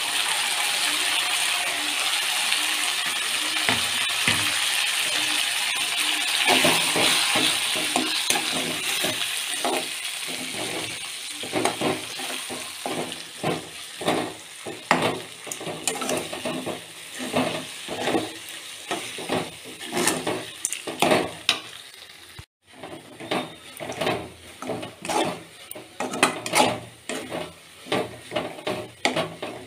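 Grated raw mango sizzling in hot oil in an aluminium kadai, the sizzle loud at first and dying down over the first several seconds. Then a spatula stirring and scraping against the pan in quick, repeated strokes.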